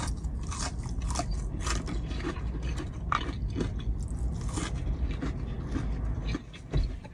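Close-up chewing of crispy fried popcorn chicken: many sharp, irregular crunches with each bite and chew, over a low steady rumble that stops about six seconds in.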